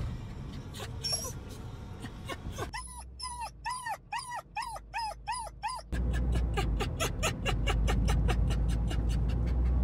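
A dog whimpering, a run of short whines that rise and fall, about three a second. It is followed by a faster run of short repeated sounds, several a second.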